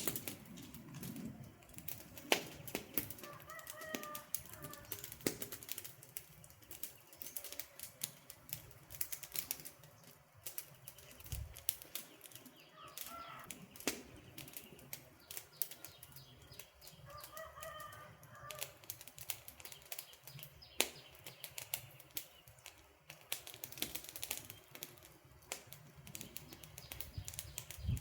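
Wood campfire crackling, with irregular sharp pops and snaps over a low steady burning noise. A bird calls briefly three times in the background.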